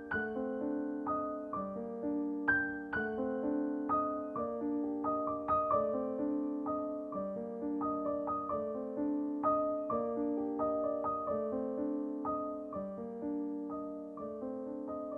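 Background piano music: a gentle, steady melody of separate struck notes, each ringing out as the next begins.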